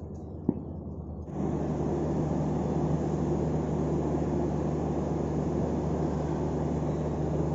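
A steady low machine drone, with a constant hum under it, starts abruptly a little over a second in, after a single click: railway station ambience.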